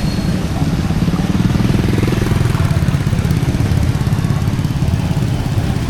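A small engine running steadily close by, its rapid, even firing pulses the loudest sound.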